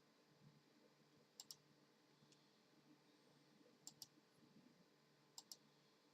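Near silence with faint, sharp clicks coming in quick pairs, three pairs spaced a second and a half to two and a half seconds apart, plus one lone click.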